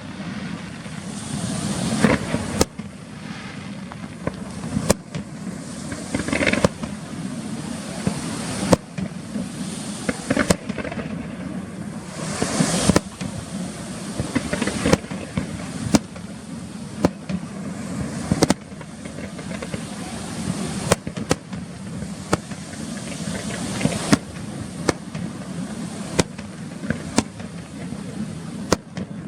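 Aerial fireworks display: shells bursting in sharp bangs at irregular intervals, roughly one or two a second, over a continuous crackling and rumbling wash.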